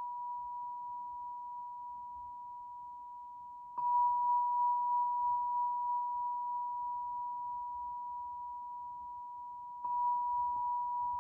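A struck tuned metal chime ringing one pure high tone, re-struck twice, about 4 and 10 seconds in, each strike sustaining and slowly fading.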